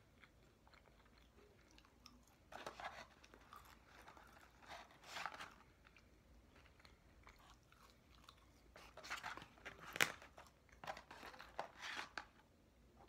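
Someone chewing and crunching McDonald's French fries, heard faintly in several short bursts, with the sharpest crunch about ten seconds in.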